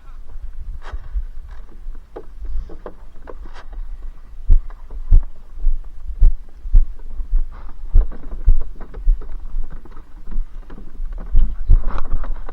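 Irregular low thumps and knocks, with a few sharp clicks between them.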